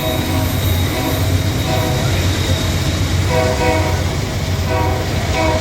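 Diesel locomotive of a Christmas train running with a steady low engine rumble as it stands or creeps to a stop, with short pitched notes sounding several times over it.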